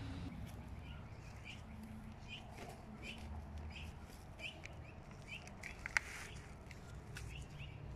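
A bird chirping over and over, short high chirps about two a second, over a low steady rumble; a single sharp click about six seconds in.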